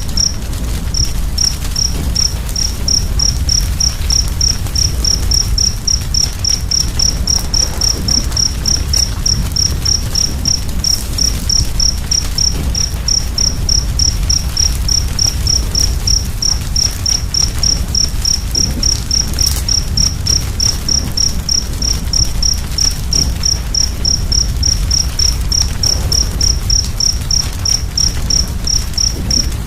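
A cricket chirping steadily, about three high chirps a second, over a constant low rumble from the fire, with a couple of faint crackles.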